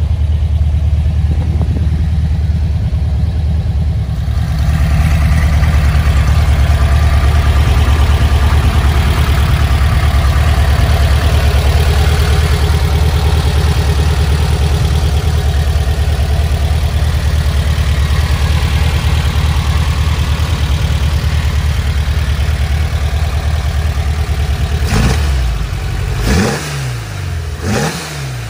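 Porsche 356A's air-cooled flat-four engine idling steadily, then revved in several quick blips near the end as the throttle linkage on its twin carburettors is worked by hand.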